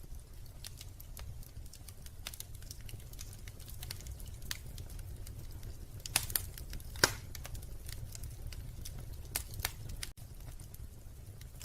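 Wood fire crackling in a fireplace: irregular snaps and pops over a low steady rumble, with two louder pops about six and seven seconds in.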